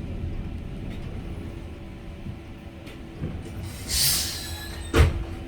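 Tram rumbling as it comes into a stop, with a short hiss of air about four seconds in and one sharp knock about a second later, the loudest sound.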